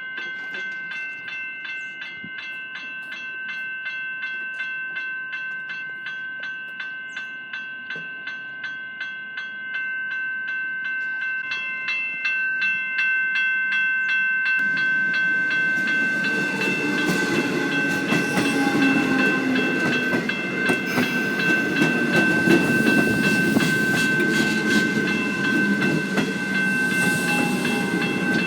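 Level-crossing electronic bell ringing in a steady repeated pattern of high tones. About halfway through, a train arrives and runs through the crossing, wheels clattering on the rails and growing louder under the bell.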